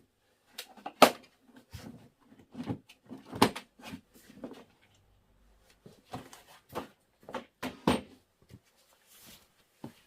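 Irregular series of sharp clacks and knocks from a DeWalt 3-in-1 toolbox step ladder being handled: parts being opened, closed and set down, with the loudest knocks about a second in and around three and a half seconds in.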